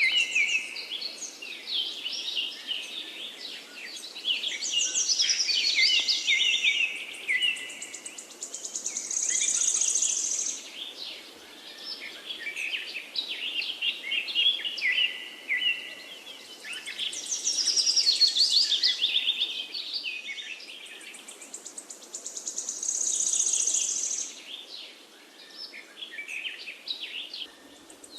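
A chorus of forest birds singing at once: overlapping chirps, warbling phrases and fast high trills that swell and fade, over a faint steady background hiss.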